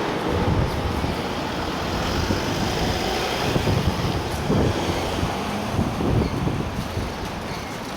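Strong wind buffeting the microphone, a rough rumbling noise that swells and eases in gusts.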